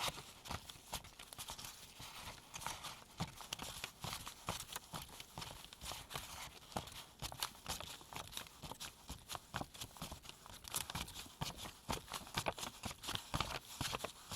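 US $1 paper bills counted one by one into a pile with gloved hands: a steady run of crisp paper flicks, rustles and soft taps as each bill is peeled off and laid down.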